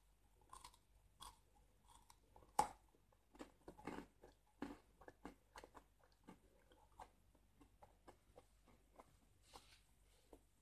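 Faint close-up biting and chewing of a sticky sesame seed snack bar. A sharp bite comes about two and a half seconds in, then a quick run of crunches that thins out toward the end.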